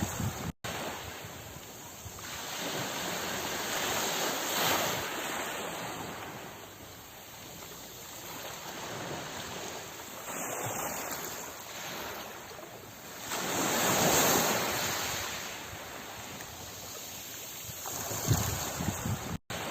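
Sea waves surging and washing on a shore, the sound swelling and fading every few seconds, with the biggest surge a little past the middle. The sound cuts out briefly just after the start and again near the end.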